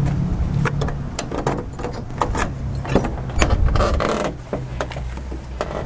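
A vehicle engine humming steadily, its pitch dipping a little partway through, under frequent sharp clicks and rattles.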